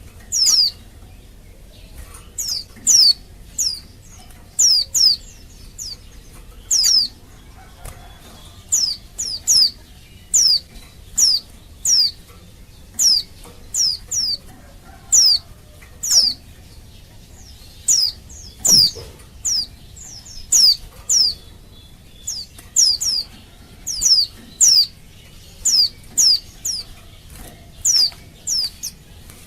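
Female white-eye (pleci) calling, a call of a female in breeding condition that draws males to answer: short, high notes that fall in pitch, often in quick pairs, repeated about once a second.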